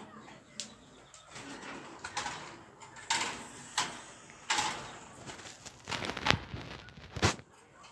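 Small pet cage birds giving a string of short, harsh chirps and calls, with two sharp knocks near the end.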